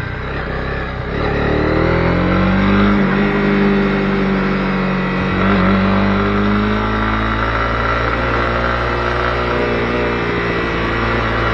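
Honda CB250R's single-cylinder engine under way. It revs up about a second in, then runs at fairly steady revs.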